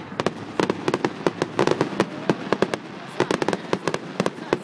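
Fireworks going off in a rapid, irregular volley of sharp bangs and crackles, several each second.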